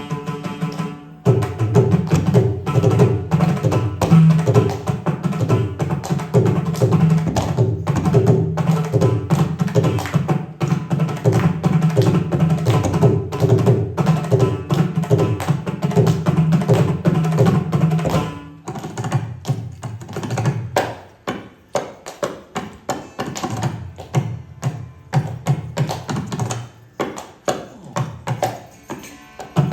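Indian classical hand drums playing a Carnatic rhythm. The strokes come fast and dense for the first eighteen seconds or so, then thin out into separated strokes with short gaps, and fill out again near the end.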